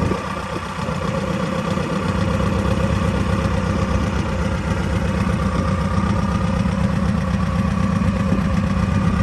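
Four-seater buggy's engine idling steadily, with a thin steady whine over the low running sound.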